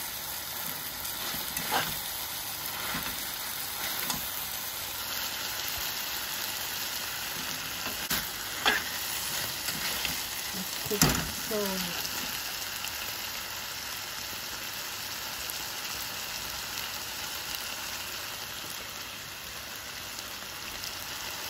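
Goat meat, onions and tomatoes sizzling in a metal pan while a slotted metal spatula stirs them. The spatula scrapes and knocks against the pan several times, loudest about halfway through.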